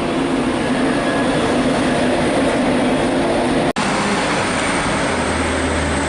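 Class 91 electric locomotive arriving with its train, a steady running hum with a few held tones. The sound cuts out for an instant about halfway through, and a deep steady hum comes in near the end.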